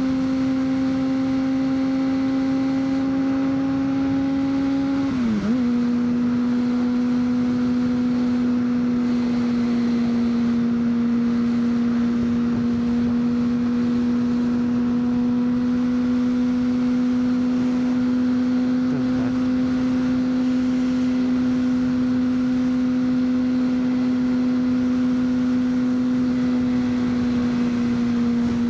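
2003 Honda CBR600RR's inline-four engine running at a steady high pitch while riding, with a brief dip in pitch about five seconds in before it settles back to a steady note.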